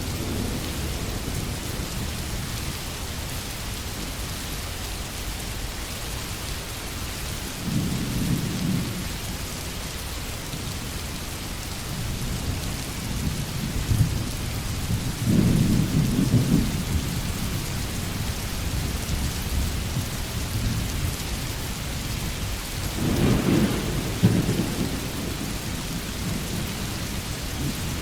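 Heavy rain falling steadily, with rolls of thunder rumbling low three times, the strongest near the end.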